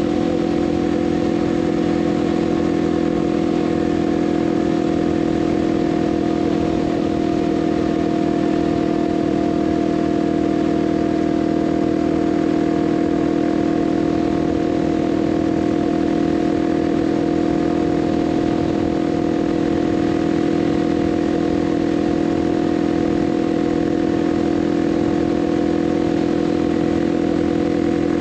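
Kawasaki KLX 300's single-cylinder four-stroke engine running steadily at highway cruising speed, its pitch and loudness holding constant with no shifts or revving.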